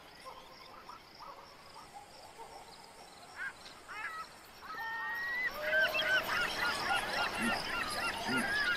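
A flock of birds calling over one another: a few scattered calls at first, then many overlapping calls from about five seconds in, growing louder.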